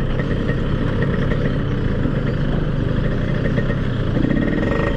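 Yamaha RX-King's two-stroke single-cylinder engine running at a steady, low speed, with no revving.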